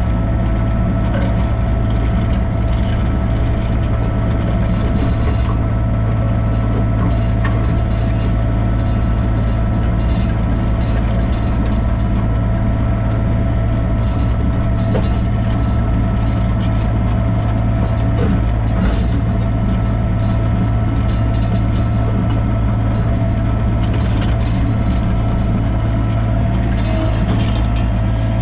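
Sany mini excavator's diesel engine running steadily, with a few faint clanks.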